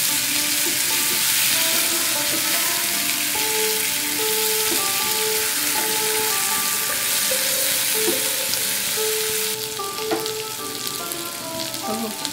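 Boiled elephant foot yam cubes sizzling as they fry in hot mustard oil in a kadai, turned with a wooden spatula. The sizzle drops to a quieter level about ten seconds in, with a few light spatula knocks.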